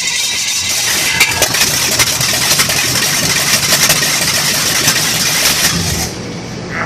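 Chevrolet 350 small-block V8 test-fired off the vehicle, running loudly with irregular sharp pops, then cutting off about six seconds in.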